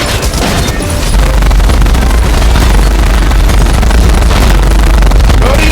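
Loud, dense action sound effects with heavy bass and booming, crashing noise throughout; it cuts off abruptly near the end.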